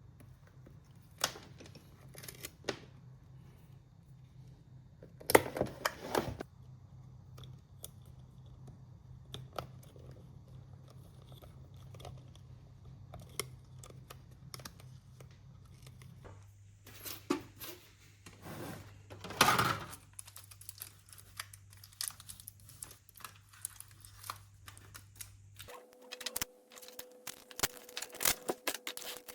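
Hands working at a bench: scattered small clicks and handling noises, with a louder tearing or scraping sound about five seconds in and another near the twenty-second mark, then a quicker run of clicks near the end.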